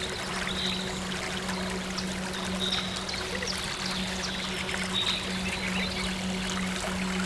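Running water pouring and trickling steadily over a steady low drone, with short high chirps recurring every two seconds or so.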